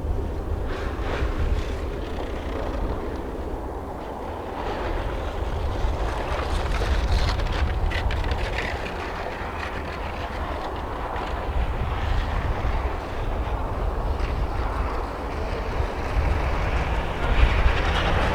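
Rally car engine running out on a snow stage, its note rising and growing louder toward the end as the car approaches, with wind buffeting the microphone throughout.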